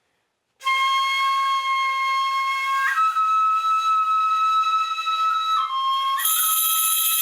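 Flute music: long held notes that step between pitches, starting just under a second in. A brighter, higher sound joins about six seconds in.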